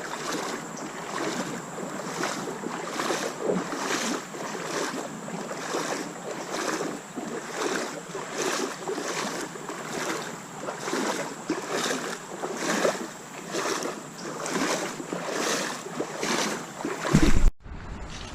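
Boots wading through shallow creek water, a splash with each stride in a steady walking rhythm. Near the end a brief loud rumble, then the sound cuts off abruptly.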